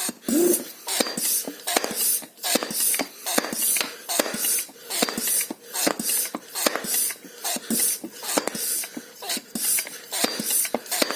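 High-pressure hand pump being worked to fill a steel air tank, a hiss of air on each stroke, about one and a half strokes a second, with a man's heavy panting between strokes.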